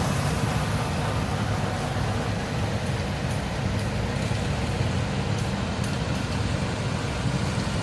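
Steady low rumble of vehicle engines running, with no distinct events.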